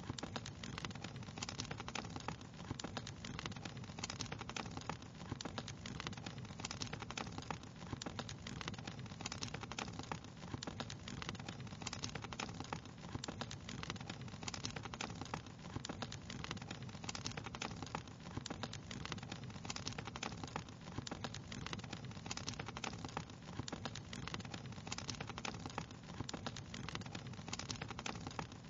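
Wood fire crackling steadily, with many small irregular pops and snaps over a low, even burning rush.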